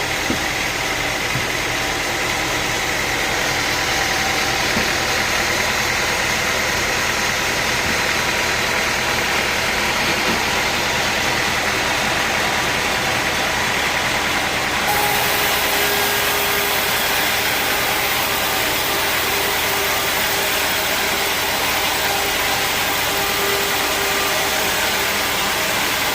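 Sawmill machinery running steadily, a continuous engine-like drone; about halfway through the sound shifts, with a brighter hiss and a steady whine joining it.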